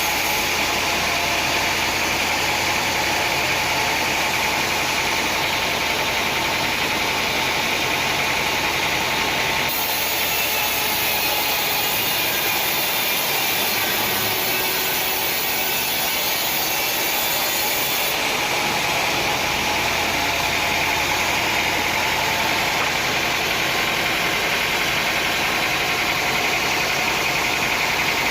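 Sawmill machinery running steadily, an engine-driven hum and noise with no distinct cuts or impacts, changing abruptly in tone twice, at about ten and about eighteen seconds in.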